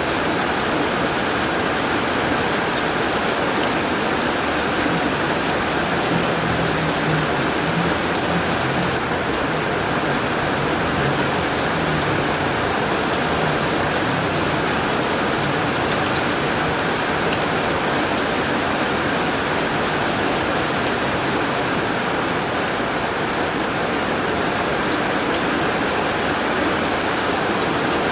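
Heavy rain pattering steadily on a tin roof, a dense even hiss of drops with scattered sharper ticks, and a faint low rumble in the first half.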